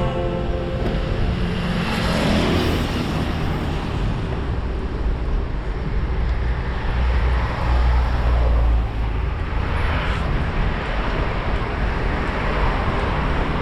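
Road traffic heard from a moving bicycle: vehicles pass with swelling whooshes, two or three times. A heavy low rumble builds about eight seconds in.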